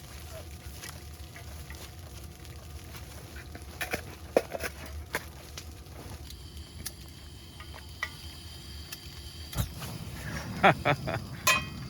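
Grilled cheese sandwiches frying in a pan on a propane camp stove, with clicks and knocks of cookware and a low steady hum underneath. A voice is heard briefly near the end.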